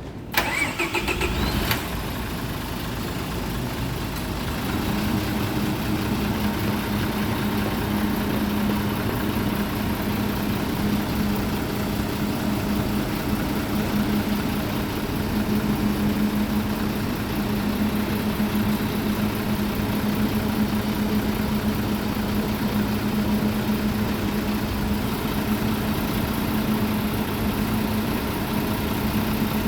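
Mitsubishi Fuso Aero Star city bus diesel engine being started: the starter cranks with a rising whine for about a second and a half, the engine catches, and it settles into a steady idle, with a steady low hum joining about five seconds in.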